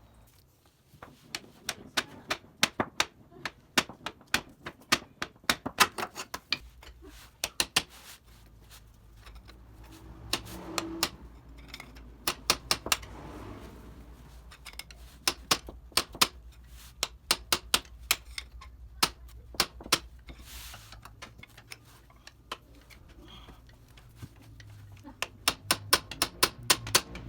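Repeated sharp metal knocks in quick, irregular runs: a pry bar being struck against the inner joint of a 2010 Toyota Corolla's left front drive axle to knock it out of the transaxle.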